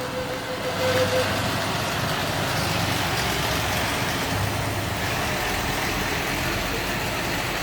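Fire department ladder truck's engine running steadily as the truck passes slowly, with a low rumble under a steady rushing noise.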